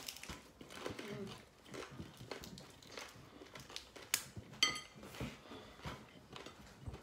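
Two people chewing crunchy fried rolled tacos with their mouths closed: faint, scattered chewing and crunching. A sharp click and a brief high squeak come a little over four seconds in.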